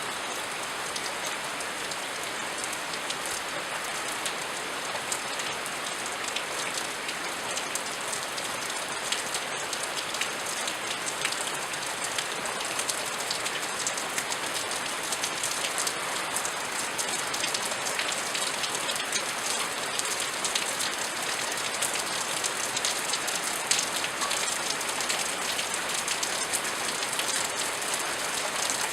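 Steady rain falling, a constant hiss with many individual drops ticking sharply on a surface throughout.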